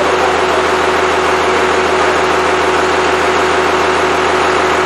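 Freshly rebuilt Cummins 5.9L 12-valve diesel engine running at a steady speed, with a constant drone and hum.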